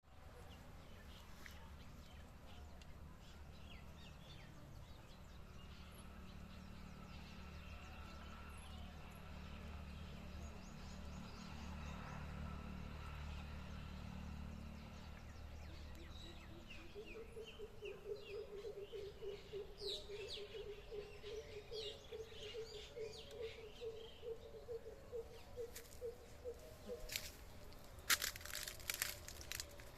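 Faint outdoor ambience. A low rumble fills the first half. Then small birds chirp, and a steady, rapidly pulsing low trill runs for about ten seconds. A few sharp clicks come near the end.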